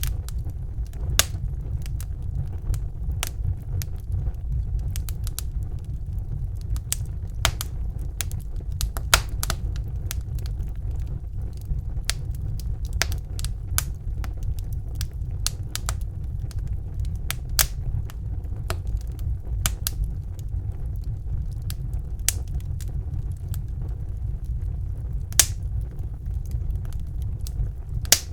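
Wood fire crackling in a fireplace, with irregular sharp pops and snaps, a few of them louder, over a steady low rumble.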